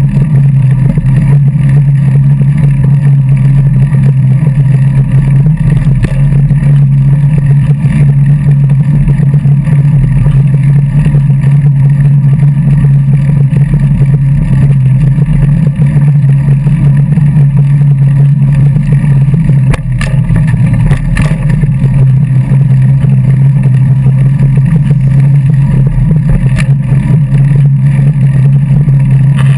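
Wind buffeting a GoPro's microphone while riding: a loud, steady low rumble with no let-up.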